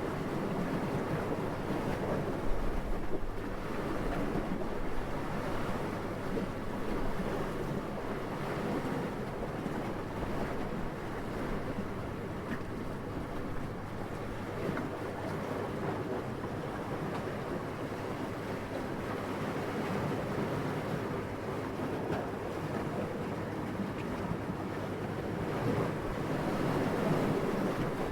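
Steady wind noise that swells and eases slowly and rises again near the end. There is one brief low thump about two and a half seconds in.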